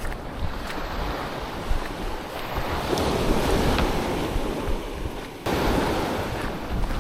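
Surf washing onto a sandy beach, with wind buffeting the microphone. The wash swells about three seconds in, and the level jumps suddenly at about five and a half seconds.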